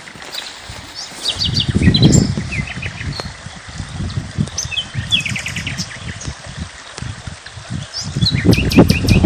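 Several small songbirds chirping and twittering in short, quick note series, over a low rushing noise that swells about two seconds in and again near the end.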